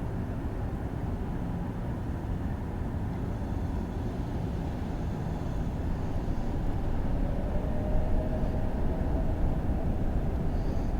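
Jet airliner engines making a steady, rumbling roar heard from the airfield, growing a little louder in the second half with a faint whine slowly rising in pitch.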